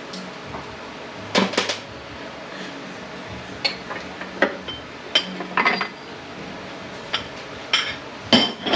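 Metal tools and transmission parts being handled on a workbench: a series of separate metallic clanks and clinks, some with a short ring.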